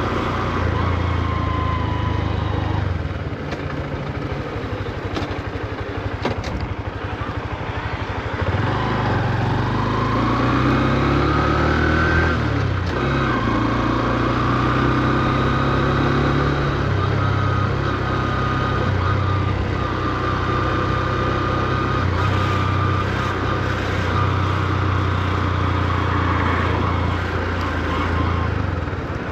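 Honda CB125F's single-cylinder four-stroke engine on the move. It eases off for a few seconds, then pulls away with the revs rising, drops sharply at a gear change, and settles into a steady cruise. It is held at low revs because the new engine is being run in.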